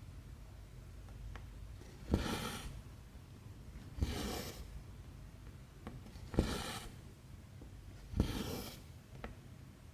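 Cross stitch needle and thread pulled through 11-count stitching fabric, four times at about two-second intervals. Each stitch starts with a sharp pop of the needle and is followed by about half a second of rasping as the thread is drawn through. Faint ticks of the needle piercing the cloth fall between the pulls.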